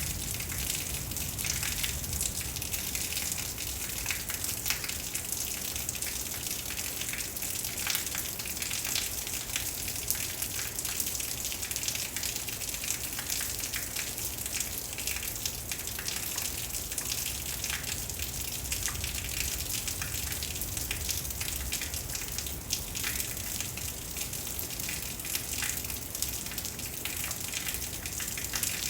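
Heavy rain pouring steadily from a thunderstorm, a dense patter of drops over a continuous wash of falling water.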